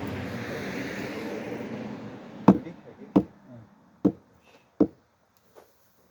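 An axe knocking into a log of firewood: four sharp wooden knocks about three-quarters of a second apart, getting quieter, then a faint fifth. Before them, in the first two seconds or so, there is a steady rushing noise.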